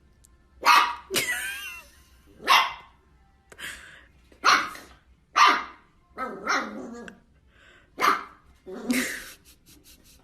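A dog barking repeatedly: about nine sharp barks at irregular intervals, one of the early ones drawn out with a wavering pitch.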